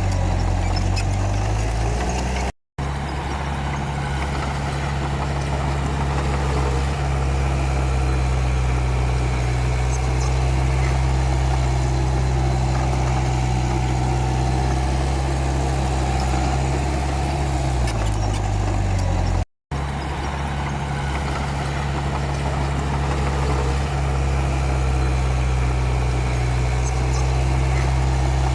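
Diesel engine of a Komatsu D31P crawler bulldozer running steadily, its pitch sagging and recovering twice. The sound cuts out for an instant twice.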